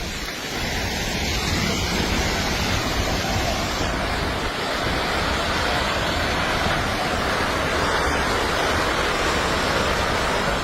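Landslide debris flowing down, a dense, steady rushing noise that sounds like a raging river.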